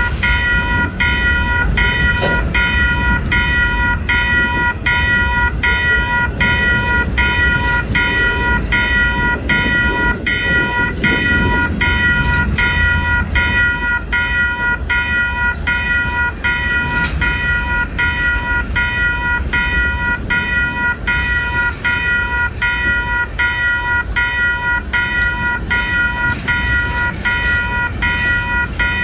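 Railroad grade-crossing warning bell ringing steadily, about one and a half strokes a second, over the low rumble of a freight train of empty lumber cars rolling past.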